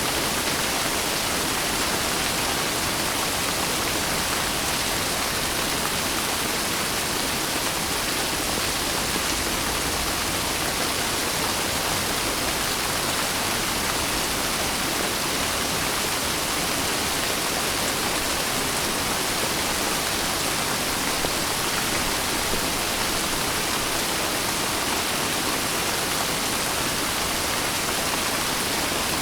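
Steady, unbroken rain hiss with no thunder or separate drips.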